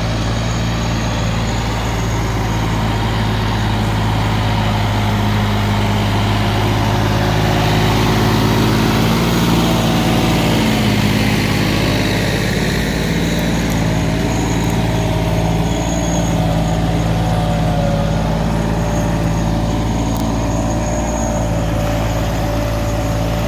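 Tractor engine running steadily, with a brief shift in pitch about ten seconds in.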